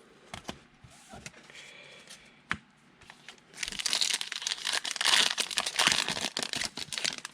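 Foil wrapper of a trading-card pack being torn open and crinkled, loud and dense for about three and a half seconds in the second half. Before it come a few light clicks and taps of cards being handled.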